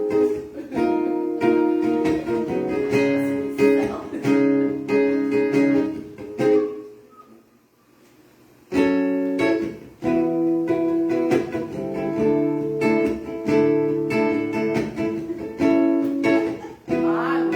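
Acoustic guitar playing chords, with no singing; it stops for about a second and a half around seven seconds in, then starts again.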